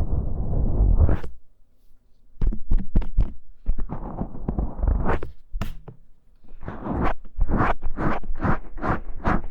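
Scratching and rubbing directly on the ear of a binaural dummy-head microphone (KU100): rough scraping at first, then after a short pause quick rhythmic strokes, about three a second near the end.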